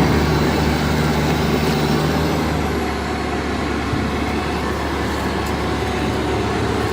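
Toyota Hilux pickup's engine running steadily under load: a continuous low drone with a heavy, even rush of noise over it.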